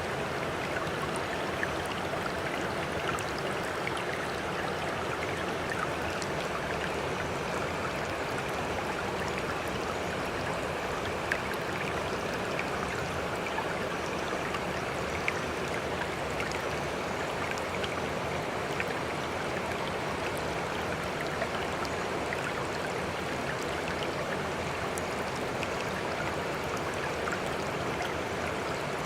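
Steady rush of flowing water, even throughout, with small scattered drips and splashes.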